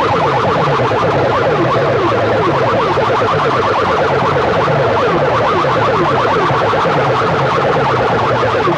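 Huge loudspeaker sound systems playing loudly at once, a dense clash of fast, repeating falling siren-like sweeps, about three a second low down with many overlapping ones higher up.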